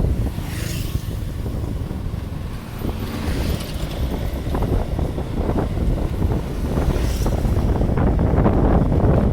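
Wind buffeting the microphone over a steady low rumble, with a few brief hissing gusts.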